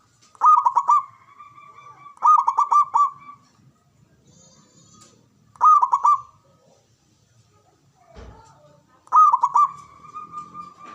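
Zebra dove (perkutut) cooing: four bouts of quick, staccato coos, each running into a held note. There is a short low thump a little after eight seconds.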